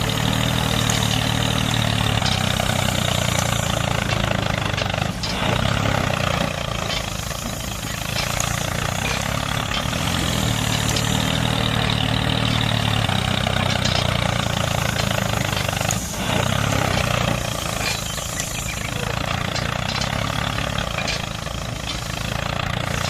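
Small engine running steadily, with a couple of sharp clicks.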